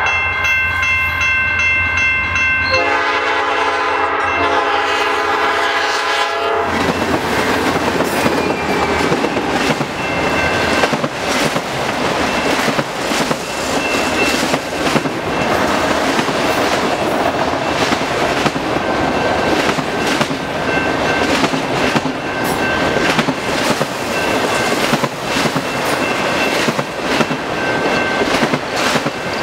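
Norfolk Southern C44-9W locomotive's P5 five-chime horn sounding as the train approaches, much louder from about three seconds in and stopping about seven seconds in. Then a long string of autorack freight cars rolls past with a steady rumble and rapid clickety-clack of wheels over the rail joints.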